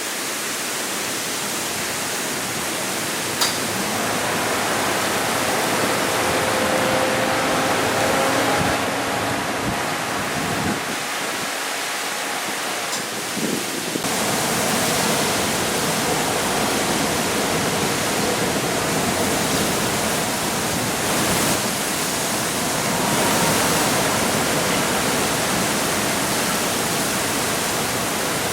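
Typhoon wind and rain making a loud, steady rushing noise that swells and eases in gusts. Faint whistling tones come through about six to nine seconds in, and there is a sharp click a little over three seconds in.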